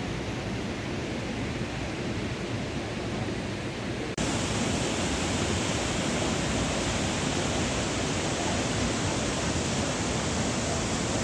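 A large waterfall rushing with a steady roar of falling water. It jumps louder and fuller about four seconds in.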